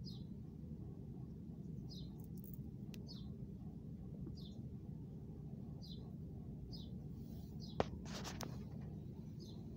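A small bird repeating a short, falling high chirp about once a second, over a steady low background rumble. A sharp tap about eight seconds in is followed by a brief rustle.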